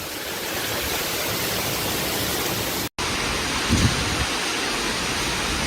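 Heavy rain hissing steadily, broken by a brief dropout a little under halfway through, with a few low thumps about a second after it.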